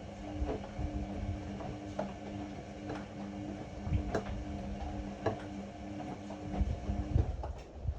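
Ariston AML125 washer-dryer running: a steady motor hum with irregular clicks and soft low thumps as the drum turns the load. The motor stops about seven seconds in as the drum pauses.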